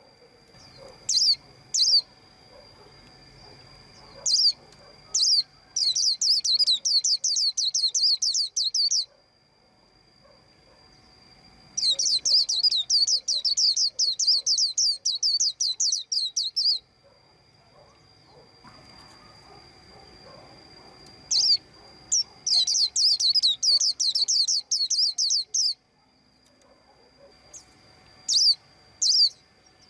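White-eye chirping: scattered single high chirps, and three long rapid trills of a few seconds each, about a quarter of the way in, in the middle and near three-quarters.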